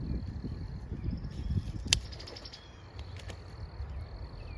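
Rustling and handling noise of plastic bird netting being pulled and stretched over garden seedlings, with one sharp click about two seconds in. A steady high insect trill runs behind it.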